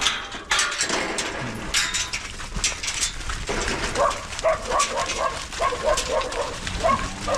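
Cattle crowding a feed bunk to eat grain: repeated knocks and clatter, with a quick series of short, high yelping calls from about four seconds in.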